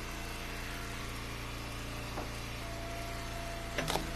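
Engine of an Eastonmade hydraulic wood splitter running steadily, with a sharp knock about halfway and a louder one near the end, and a thin steady whine starting a little past halfway.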